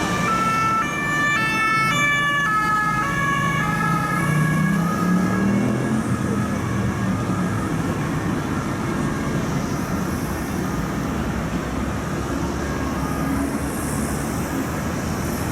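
French police two-tone siren (deux-tons) alternating between two pitches, dropping slightly in pitch and fading out over about five seconds as the car passes and moves away. Road traffic noise follows, with an engine revving up around four to six seconds in.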